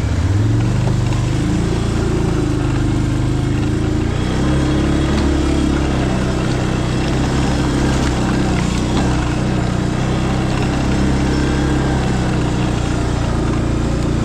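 Engine of a small vehicle running while driving; it picks up speed about half a second in and then runs steadily.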